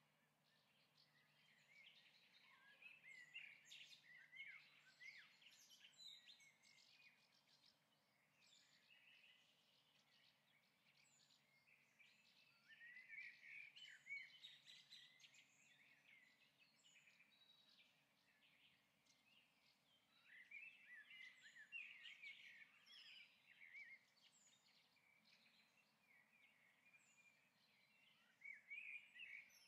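Faint bird-like chirping in short clusters that recur about every eight seconds, over near silence.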